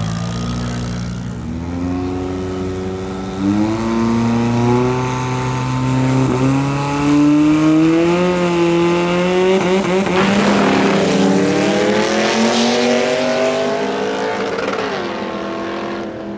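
A drag-racing car's engine under hard acceleration. The pitch climbs in steps over about ten seconds and then drops away near the end.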